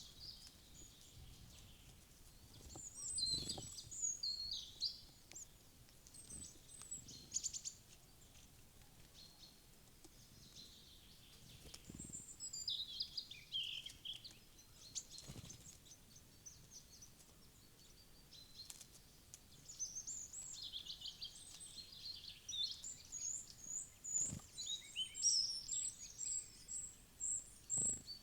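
Several wild forest birds chirping and singing in overlapping high-pitched calls that come in bursts, with a few faint low knocks.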